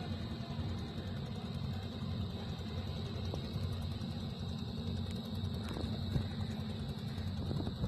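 Steady low drone of a fishing boat's engine running, with a few faint clicks.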